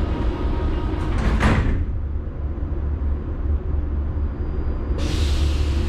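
Metro carriage sliding doors shutting about a second and a half in: a few clicks, then a loud sweep and thud as the doors close, over the steady low rumble of the train. Near the end a sudden loud hiss sets in.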